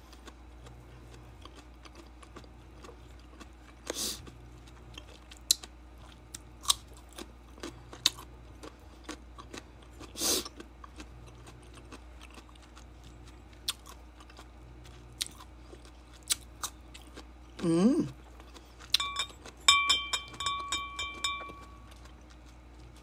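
A person chewing and biting soft, juicy mango, with scattered wet smacks and mouth clicks. About three-quarters of the way through there is a short murmured hum, and near the end a quick run of clinks with a ringing tone.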